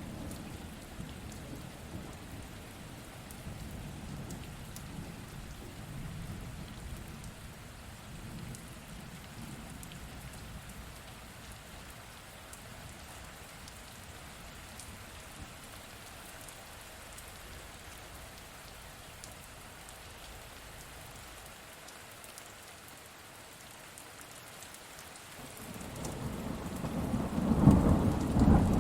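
Steady rain falling, with low thunder rumbling in the first half that dies away, then a loud roll of thunder building up near the end.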